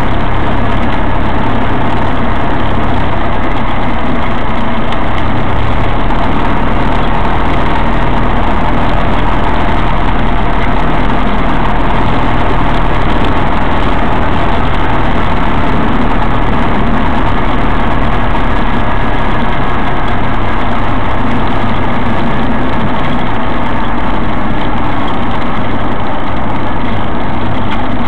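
Cessna 172's piston engine and propeller running steadily, heard loud inside the cockpit.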